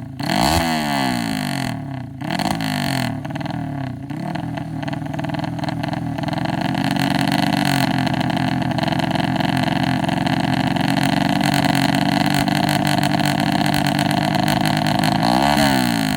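Honda Revo Absolute's 110 cc single-cylinder four-stroke engine through a K-One racing exhaust, revved in quick blips for the first few seconds, then held at high revs, dropping and climbing again near the end, while the engine is being tuned.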